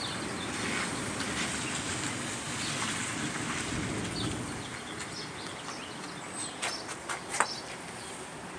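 Thunder rumbling on and slowly fading, with a few faint clicks and chirps in the second half.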